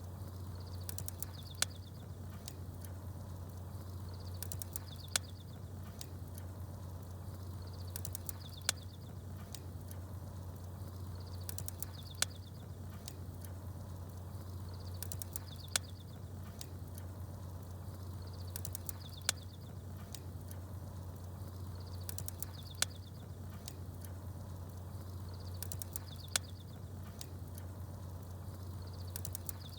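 Campfire crackling and small birds chirping, over a steady low rumble. A short high chirp with a sharp crack recurs at even spacing, about every three and a half seconds.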